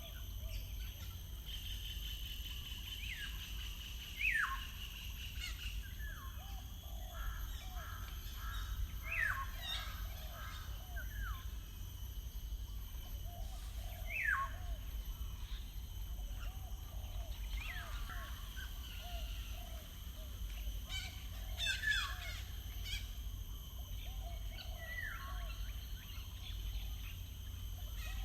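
Several wild birds singing and calling. The loudest are sharp, downward-sliding whistled calls repeated every few seconds, over softer strings of short, lower notes. A steady low rumble sits underneath.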